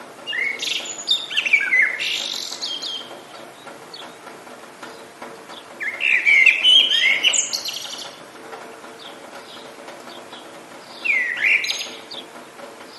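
A songbird singing three phrases of quick, warbling, rising and falling notes, a few seconds apart, over a faint steady background hiss.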